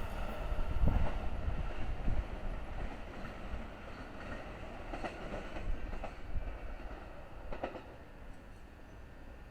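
Train wheels knocking over rail joints as the train moves away, the rumble dying down and the knocks growing fainter and further apart.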